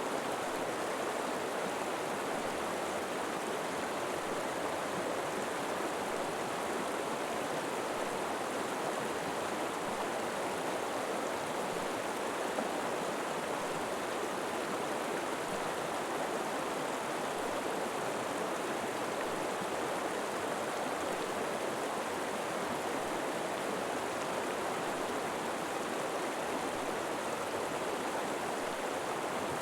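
River water flowing steadily over rocks, a constant rushing sound.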